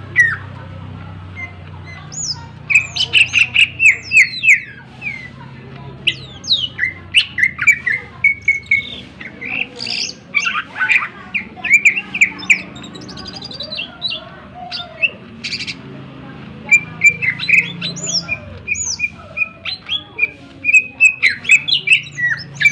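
Cucak ijo (green leafbird) singing loudly in rapid runs of sharp, falling whistles and chips, its song laced with mimicked calls of other birds. It sings in three long bursts, with short pauses about five seconds in and again midway.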